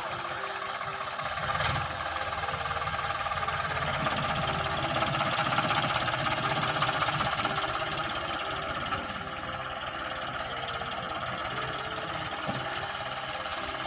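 Tractor diesel engine running steadily with a knocking clatter, growing louder in the middle and then easing back.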